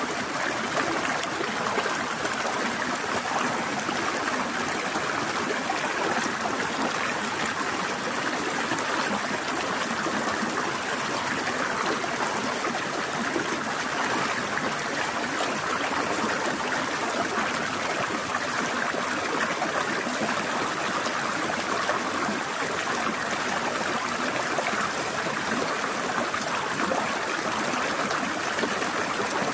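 Stream water flowing and trickling over rocks, a steady, even rush with no change.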